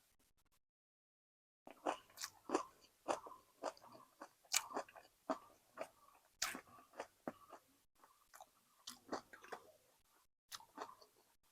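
A person chewing a mouthful of food close to the microphone, with many irregular wet crunches and clicks. It begins about a second and a half in, pauses briefly near the end, then a few more chews follow.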